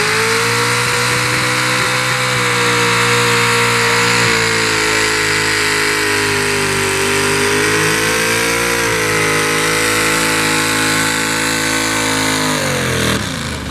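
Pickup truck's engine at high revs during a truck pull, its pitch held steady with small dips. Near the end the revs fall away as the driver lets off.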